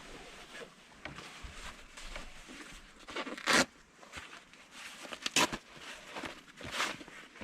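Zippers being pulled and gear rustling: a run of short scraping strokes, the loudest about three and a half seconds in and twice more later.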